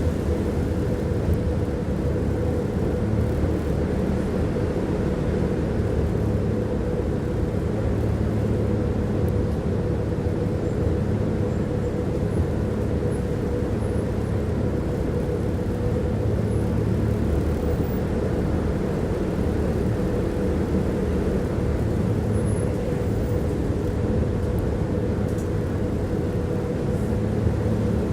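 Tram in motion heard from inside the passenger car: a steady rumble of the wheels running on the rails, with a low hum and a steady mid-pitched whine.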